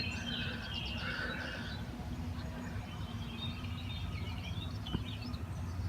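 Faint bird calls, short chirpy phrases coming and going, over a steady low outdoor rumble.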